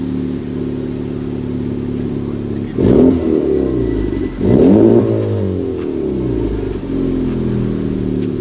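Honda Civic Type R FK8's turbocharged 2.0-litre four-cylinder idling through an AWE aftermarket exhaust, with two short revs about three and five seconds in, each rising and dropping back to a steady idle.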